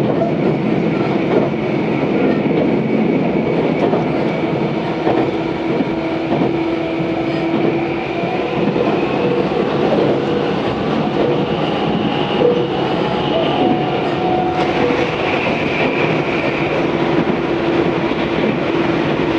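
Tobu 634 series electric train running, heard from inside the carriage: a steady rumble of wheels on rail with light clickety-clack and a few steady whining tones.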